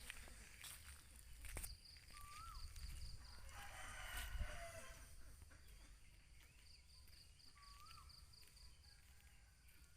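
A rooster crowing faintly once, about four seconds in, with a small bird's short rising-and-falling call twice and a high pulsing trill in two runs.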